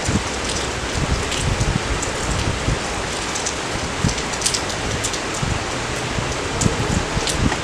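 Steady rain falling, an even hiss with scattered close raindrops ticking and tapping.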